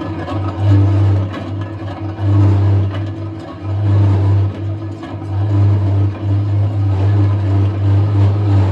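Large metal lathe turning a truck wheel rim, its motor running with a loud low hum that swells and eases every second or so.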